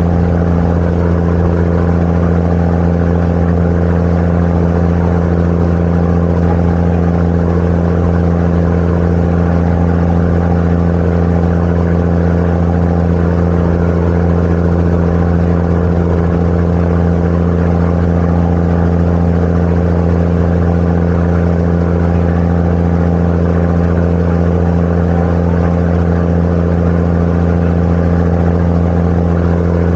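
Tour boat's engine running at a steady cruising speed, a loud, even low drone that does not change.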